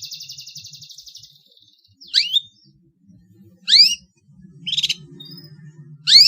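Long-tailed shrike (pentet) singing: a rapid buzzy chatter for about a second, then three loud upward-sweeping calls about a second and a half apart, with a short buzzy burst between the last two. A faint low hum sits underneath.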